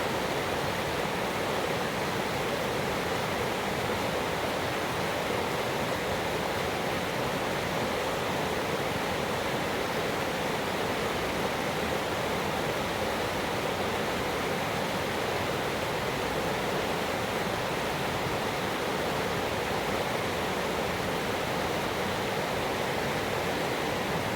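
Mountain creek water rushing in a steady, even stream.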